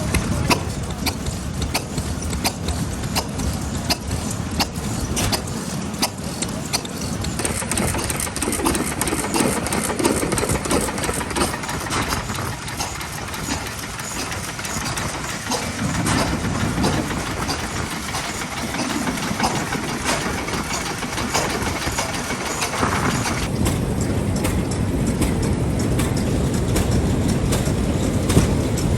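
Vintage Japanese stationary engines running, with a continuous mechanical noise and many sharp ticks from their firing and valve gear. The mix changes twice, a little after 7 seconds and again around 23 seconds, as different engines come to the fore.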